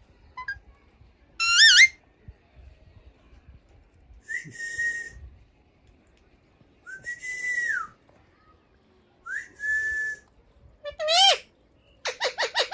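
Pet Alexandrine parakeet giving about five short whistled calls spaced a second or two apart, some rising in pitch and some held level, then a quick run of chattering squawks near the end.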